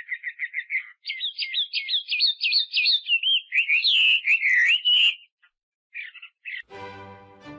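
A bird singing: a fast trill of repeated chirps, then higher warbling notes that glide up and down, stopping about five seconds in, with a few short chirps after. Background music comes in near the end.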